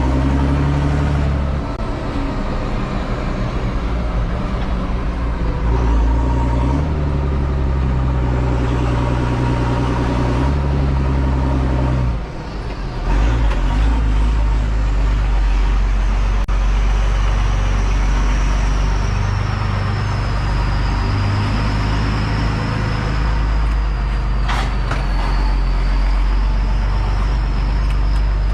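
Same Titan 160 tractor engine running under way, its note shifting a few times and dropping briefly about twelve seconds in before running steady again. From about sixteen seconds in a high, wavering whine runs over the engine, and a single sharp click comes near the end.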